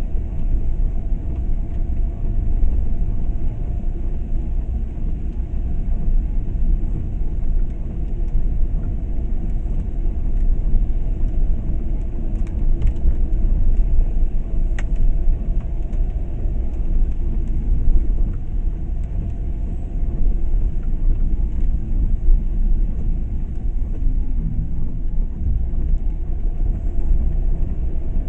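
A car on the move: a steady, low rumble of engine and road noise that does not let up.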